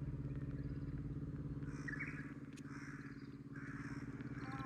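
An engine idling steadily with an even, rapid pulse, with a few faint bird chirps over it about halfway through.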